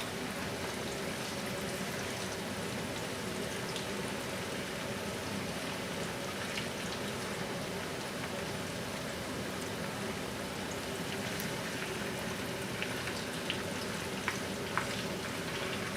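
Starch-coated chicken pieces deep-frying in hot oil: a steady sizzle with scattered small pops and crackles.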